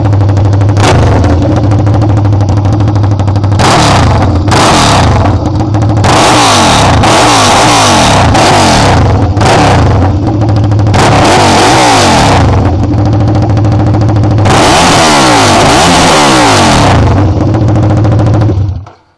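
Aprilia RSV Mille's 998 cc V-twin engine running with no exhaust fitted, very loud. The throttle is blipped again and again, each rev rising and falling back to a steady idle. The engine is switched off near the end.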